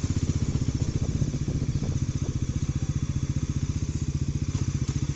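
Bajaj Pulsar NS400Z's single-cylinder engine running steadily at low revs, a rapid, even exhaust beat with no revving. The engine is new and is being kept below 4000 rpm to break it in.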